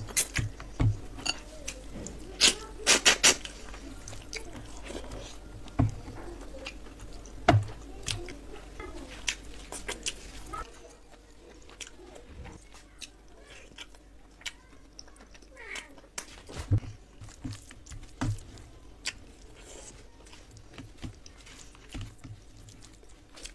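Close-miked eating sounds: a person chewing a mouthful of chicken and rice, with wet lip smacks and sharp mouth clicks. The smacks are dense and loud for about the first ten seconds, then sparser and quieter.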